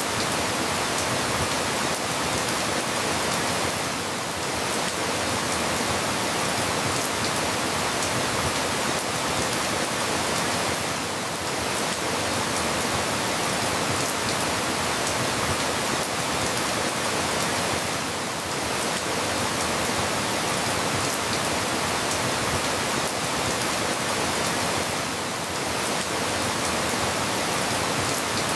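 Steady rain falling, a dense even hiss with faint patter of drops, dipping slightly in level about every seven seconds.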